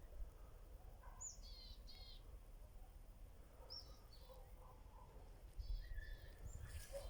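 Faint songbird calls: a few groups of short, high chirps, about a second in, near the middle and again toward the end, over a low steady background noise.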